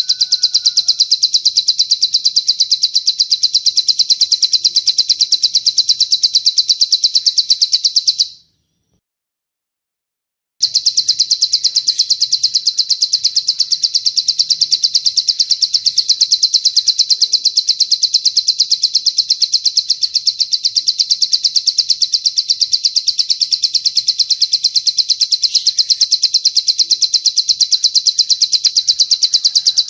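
The long 'cililin' song: a very fast, high-pitched bird trill that goes on without pause. It drops out to silence about eight seconds in and comes back about two seconds later.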